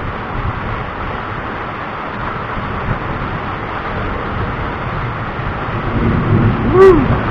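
Steady hiss of thunderstorm rain and wind, with a low rumble swelling near the end. Just before the end there is a brief rising-and-falling tone and a sharp click.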